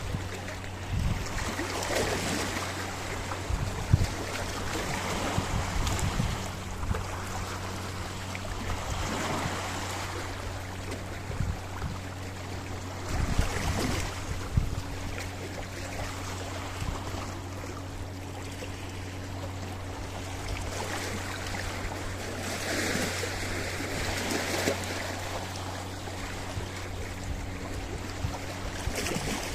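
Sea waves breaking and washing against a rocky shore, the surf swelling every few seconds and then drawing back. A steady low hum runs underneath.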